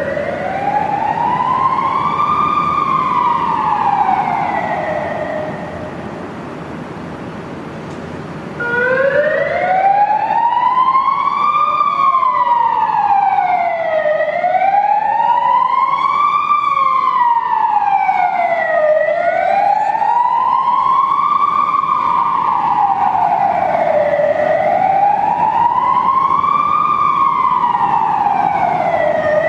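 Police siren in wail mode, its pitch rising and falling slowly in sweeps of about four to five seconds. It stops after one sweep, leaving a low steady rumble, then starts again about nine seconds in and keeps cycling.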